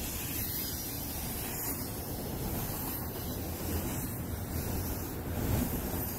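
Double-stack intermodal container well cars rolling past at speed: a steady rumble of steel wheels on rail.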